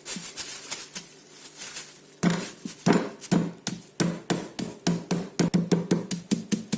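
Chicken breast inside a plastic bag being pounded flat on a board to tenderise it: a run of sharp knocks starting about two seconds in and quickening to about four a second.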